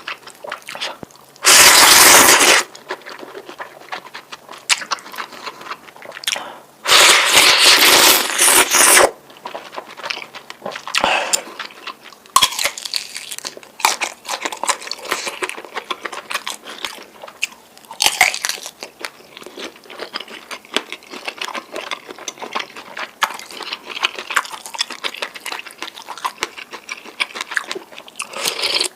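Close-miked eating of noodles: chewing and biting with many small, quick, wet clicks. Two loud noisy rushes, each a second or two long, come about two seconds in and again about seven seconds in.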